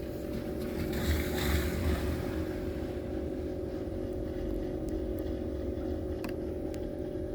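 Steady engine-like hum with a low rumble and a hiss of wind noise, unchanging throughout, with a few faint clicks.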